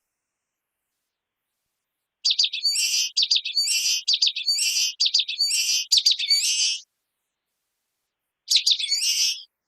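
Common waxbill singing: a fast run of short, high, buzzy notes that ends in a longer drawn note, starting about two seconds in, then one more short phrase near the end.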